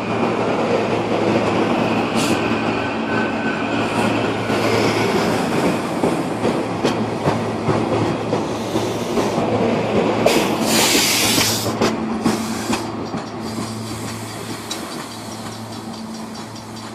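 Silverliner V electric multiple-unit train running on the rails, heard from inside the leading car: wheel and track rumble with a clickety-clack of rail joints over a steady electrical hum. A loud hiss lasts about a second and a half, about ten seconds in, and the running sound gets quieter near the end.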